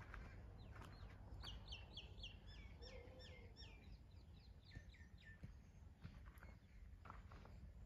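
A bird singing a faint, rapid series of short falling notes, about four a second, for a few seconds in the middle, over a low steady rumble.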